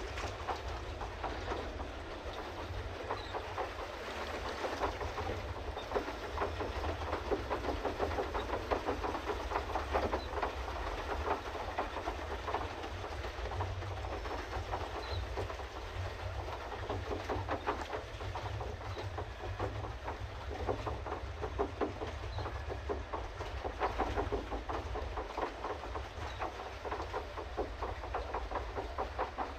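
Pedal boat's paddle wheel churning the water in a rapid, continuous splashing patter as it is pedalled along, over a low rumble.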